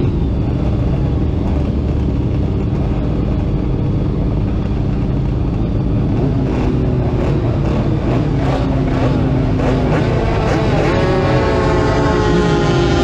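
Racing motorcycle engine heard from on board, running steadily at first, then revving up in rising sweeps during the last few seconds.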